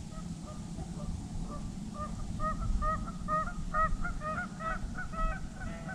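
A flock of geese honking, many short calls a second overlapping, growing busier and louder from about a second in.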